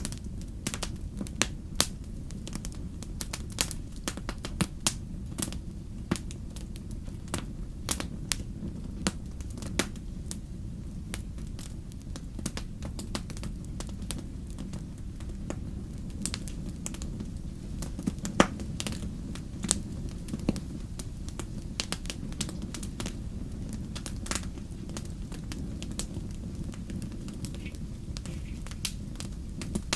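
Wood fire crackling in a fireplace: a steady low rumble of the flames with frequent irregular sharp pops and snaps, one louder pop about eighteen seconds in.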